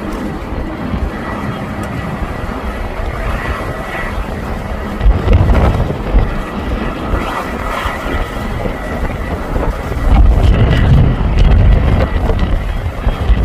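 The four GEnx jet engines of a Boeing 747-8 running at takeoff thrust, a steady loud noise. Strong wind buffets the microphone in heavy low gusts about five seconds in and again from about ten seconds on.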